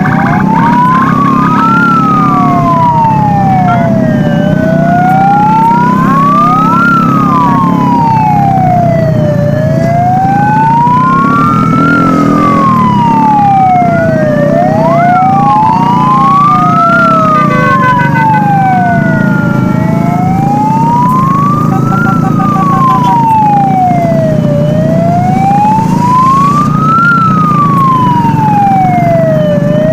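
Several vehicle sirens sounding together over a steady drone of engines. The loudest siren rises and falls in an even wail, about every five seconds, with other sirens sweeping out of step with it.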